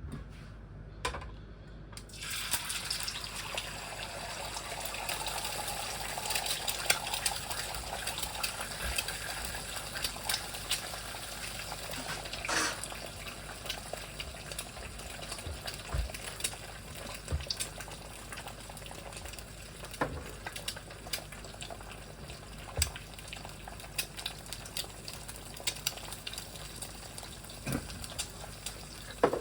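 Eggs frying in a hot pan of fat: a few knocks, then a steady sizzle that starts suddenly about two seconds in, with scattered pops and crackles.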